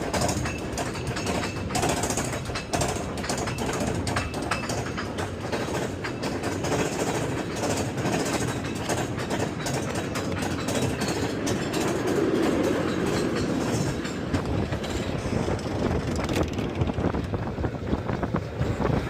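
Mine train roller coaster car clattering along its track, with a dense run of rapid clicks and clanks throughout.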